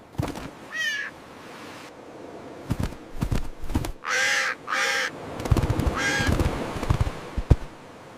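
Seagull squawks: four harsh calls, one short call just under a second in, two in quick succession about four seconds in, and one more about six seconds in. Short knocks and taps fall between the calls.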